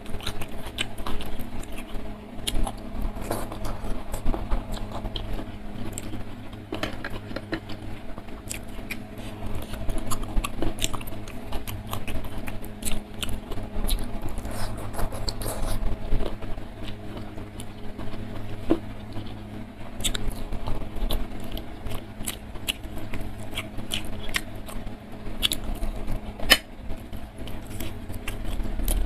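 Close-miked eating sounds of food eaten by hand: wet chewing, lip smacks and sticky mouth clicks, with fingers scraping through rice and sautéed mushrooms. There are many irregular sharp clicks throughout.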